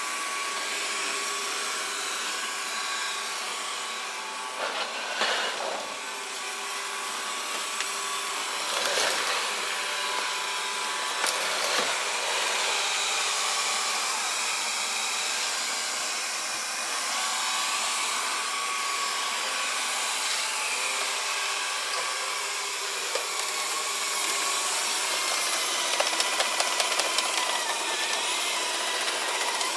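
Xiaomi Mijia robot vacuum cleaner running steadily as it cleans, its fan and brushes whirring, with a quick run of sharp ticks near the end.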